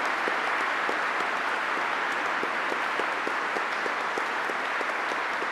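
Sustained applause from a large audience: many hands clapping at once in a steady, even wash of sound.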